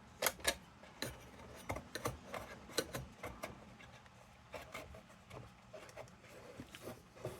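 A wooden stick and a rag scraping and rubbing softened paint-stripper residue and paint flakes out of a metal lantern's air passage. The sound is a run of light, irregular scrapes and clicks.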